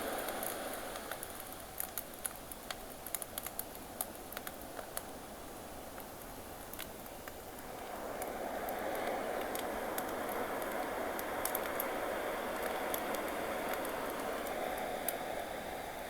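Ocean waves washing in and out, one ebbing away and the next surging in about eight seconds in, with a campfire crackling over them, its pops thickest in the first five seconds.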